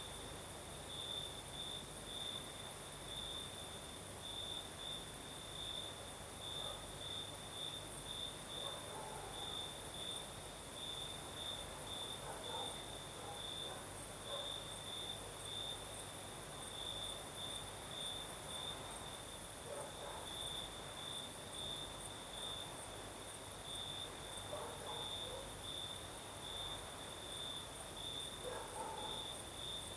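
Crickets chirping: a steady, fast-pulsing trill, with a higher hissing insect chorus behind it.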